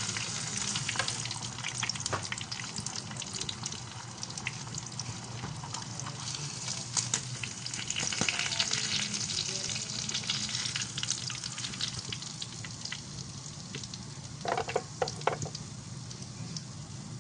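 Bangus (milkfish) frying in hot oil: steady sizzling dotted with crackles and pops, with a short run of louder knocks about fifteen seconds in.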